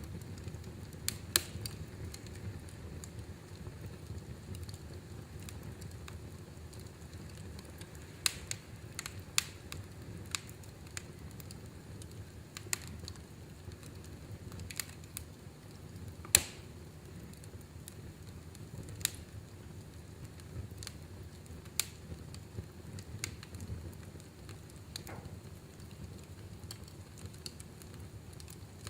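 Fireplace fire crackling: a steady low rumble of burning with irregular sharp pops and snaps, the loudest about halfway through.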